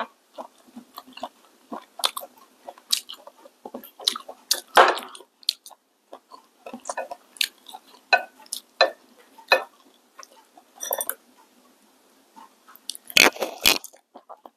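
Close-up eating sounds: chewing and biting, with chopsticks clicking against a plate in scattered short taps. There is a louder cluster of eating noise near the end as a mouthful is taken from the bowl.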